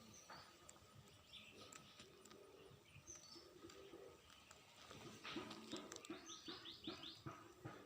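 Faint outdoor ambience with small bird chirps now and then. About five seconds in comes a quick run of short repeated animal calls, about five a second.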